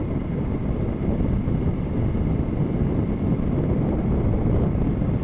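Steady wind noise on the microphone with motorcycle engine and road noise while riding.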